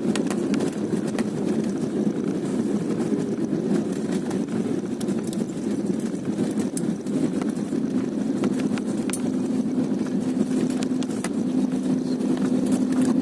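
Steady rumble of an airliner's engines and airflow heard inside the passenger cabin, with faint scattered rattles. A steady hum joins in about eight seconds in.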